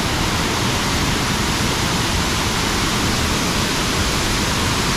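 Waterfall cascading: a steady, loud rush of falling water with no let-up.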